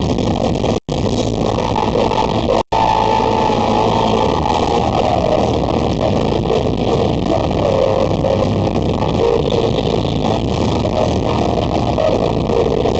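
Loud live rock music from a band with guitars and a wavering melody line, the sound cutting out for an instant twice in the first three seconds.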